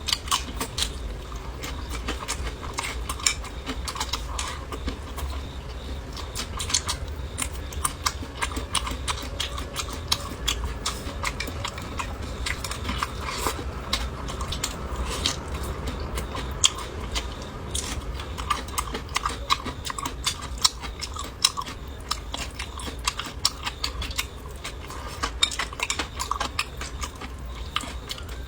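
Close-miked eating: chewing and biting, with many small irregular clicks of utensils against dishes.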